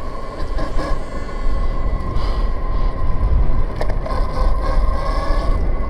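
Electric dirt bike's motor whining steadily while riding, over heavy wind rumble on the microphone.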